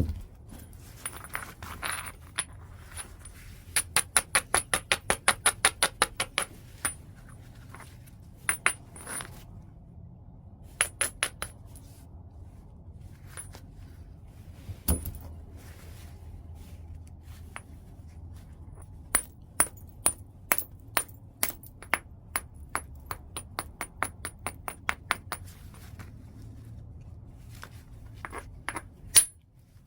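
Flintknapping a large piece of white chert: runs of quick, sharp clicks, about five or six a second, as the stone is struck and worked. A few single harder knocks stand out, the loudest near the end.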